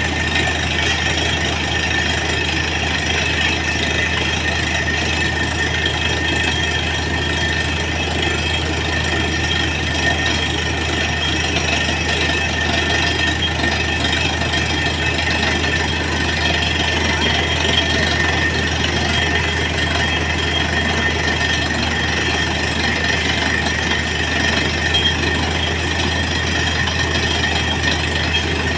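Truck-mounted borewell drilling rig running steadily, a constant engine hum with a steady high-pitched whine over it.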